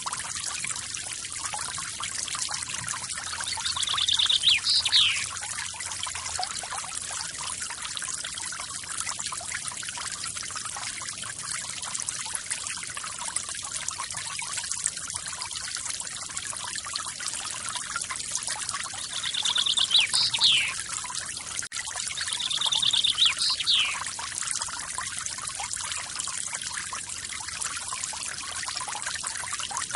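Forest waterfall: water splashing and trickling with a steady hiss. A bird gives a short trilled call three times, about four seconds in and twice about two-thirds of the way through, each a fast trill ending in a quick falling note.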